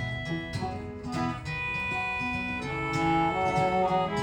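Instrumental break in a live folk song: strummed acoustic guitar under a melody of held notes that step from pitch to pitch.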